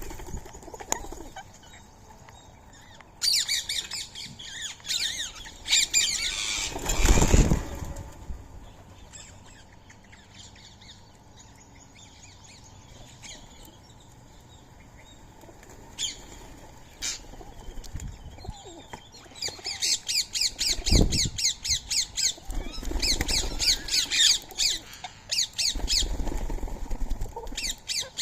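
Rose-ringed parakeets (Indian ringneck parrots) squawking in rapid, high, repeated calls, in two spells: a few seconds in and again past the middle. A loud rush of noise comes about seven seconds in and another about twenty-one seconds in.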